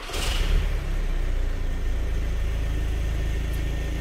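Audi A3 8P 2.0 TDI diesel engine starting and settling into a steady idle, running on its own now that the faulty crankshaft position sensor in the rear crankshaft seal has been replaced.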